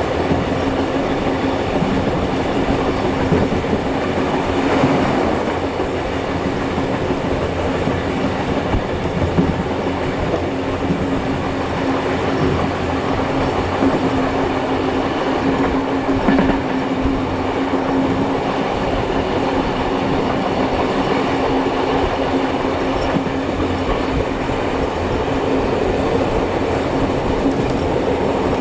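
Heritage passenger train on the move, heard from aboard: a steady rumble of carriage wheels on the rails with some clickety-clack over the rail joints and a steady low hum underneath.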